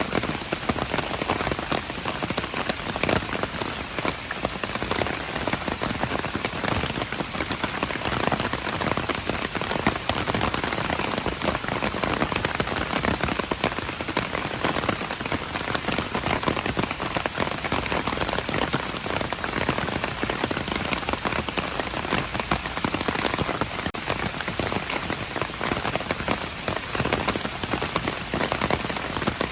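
Steady rain falling: an even hiss made of a dense patter of countless small drops, unchanging throughout.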